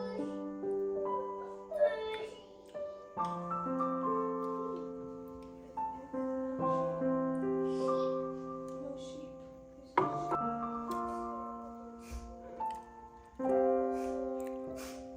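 Slow, calm background piano music: held chords that change about every three and a half seconds, with a few faint clicks over them.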